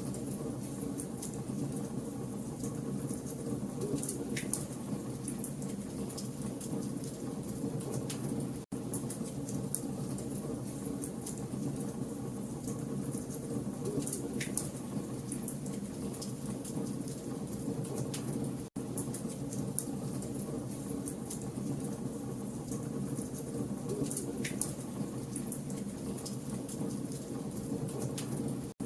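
Campfire logs burning: a steady low rush of flame with constant fine crackling and a few sharper pops. The sound cuts out for an instant about every ten seconds.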